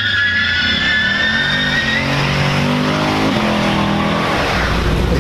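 Car tyres squealing for about two seconds, then a car engine accelerating hard, its pitch rising twice in succession.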